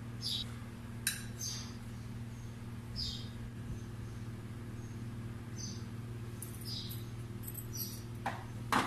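A small bird chirping in short, high chirps every second or two over a steady low hum, with a sharp knock near the end.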